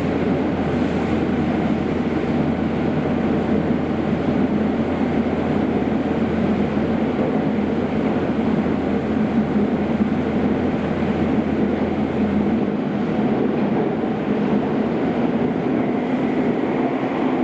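Kobe City Subway 5000 series metro train running through a tunnel, heard from inside the car: a steady rumble of wheels and running gear, with a low hum that drops away about three-quarters of the way through.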